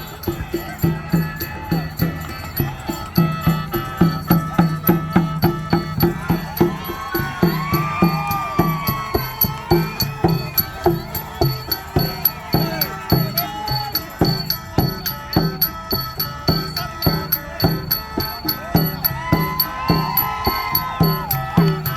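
Traditional Lao festival music: a drum beating steadily at about two to three strokes a second with ringing cymbals or gongs. A voice rises and falls over the beat twice.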